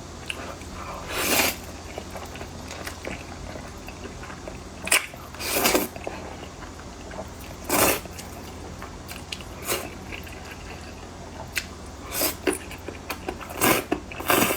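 Close-miked eating of a noodle dish: chewing, with short, loud, noisy mouthfuls coming irregularly every second or two.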